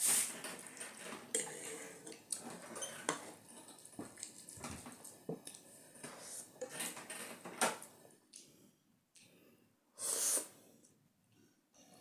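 A person slurping and chewing noodles in a run of irregular wet slurps and mouth noises, with a longer, louder slurp about ten seconds in.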